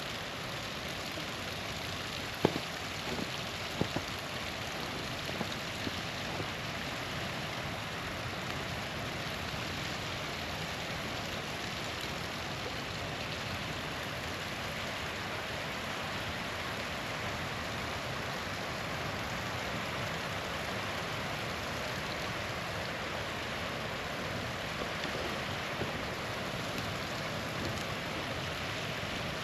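Small waterfall rushing steadily, with a few sharp pops and crackles from a wood campfire: the loudest about two and a half seconds in, another near four seconds, and fainter ones later.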